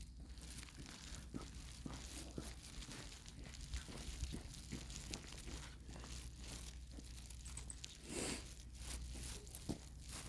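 Irregular crunching and rustling of footsteps on a walk, with a steady low rumble underneath and a brief louder rush about eight seconds in.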